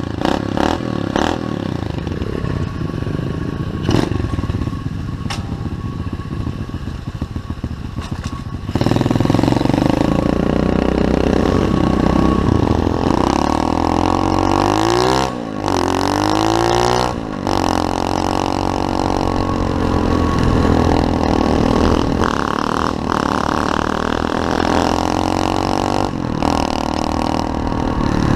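SSR 125cc semi-automatic pit bike engine running quietly for about the first eight seconds, then revving hard as the bike rides off. Its pitch rises and falls through the gears, with two short dips near the middle.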